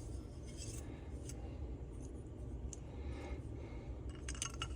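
Faint handling noise of small two-stroke engine parts on a workbench, with a few light metal clicks and clinks near the end as the leaf blower's crankcase and bearings are fitted up to check the clearances.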